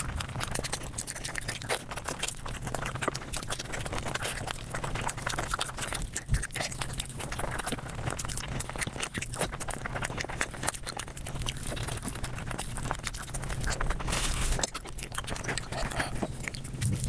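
Close-miked mukbang eating sounds sped up about five times: a dense, rapid stream of crunching and chewing clicks.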